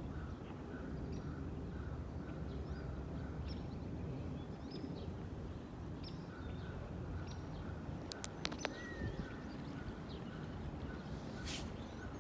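Small birds chirping in short, scattered high calls, with a faint note repeating about twice a second, over a steady low outdoor rumble. A few sharp clicks come about eight seconds in, and a brief hiss near the end.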